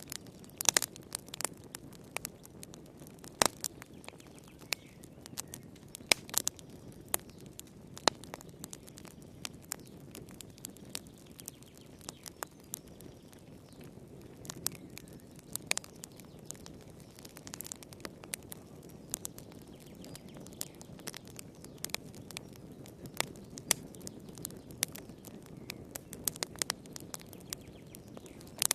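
Fire crackling, with irregular sharp pops, some loud, over a low steady rumble.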